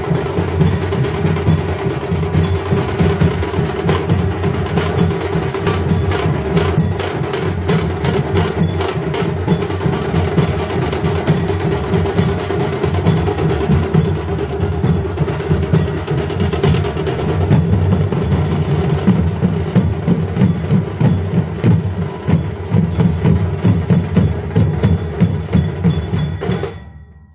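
Percussion-led music with rapid, dense drumming over a steady low drone; it fades out sharply near the end.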